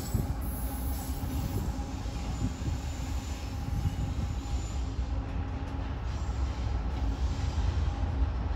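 CSX double-stack intermodal freight train rolling along the tracks, a steady rumble of wheels on rail and diesel locomotive running.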